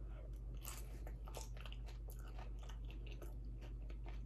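A person chewing a mouthful of tinned minced beef and onion pie in gravy, close to the microphone, heard as many small irregular mouth clicks.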